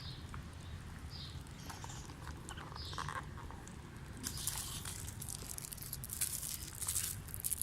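Self-heating noodle cup's heating pack reacting with water: the water bubbling and crackling in a steady patter of small clicks, with a louder hissing stretch from about four seconds in.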